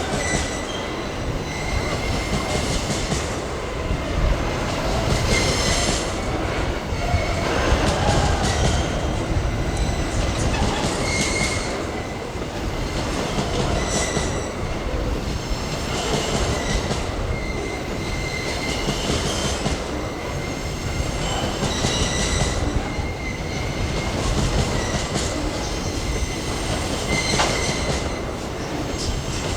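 Empty freight train of pulp wagons rolling past, a steady rumble of steel wheels on the rails with high-pitched wheel squeal coming and going every two to three seconds.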